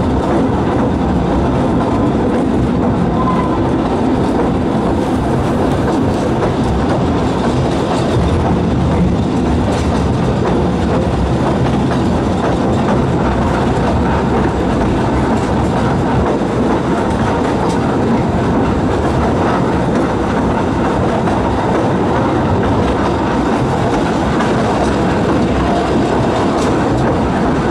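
Narrow-gauge railway train running along the track, a steady rumble and rattle of carriage wheels on the rails heard from aboard.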